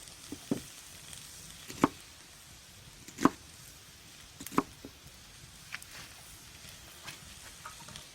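Kitchen knife cutting through onion onto a cutting board in slow, separate strokes, each a sharp knock, about a second or more apart; the loudest three fall near the middle.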